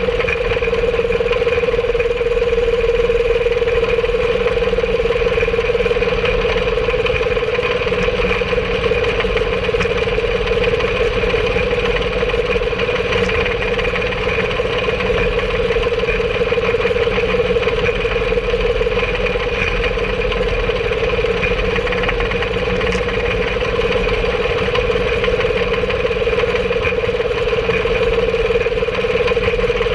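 Engine of a home-made rail cart (speeder) running steadily under way, a constant drone with a steady pitch that holds throughout.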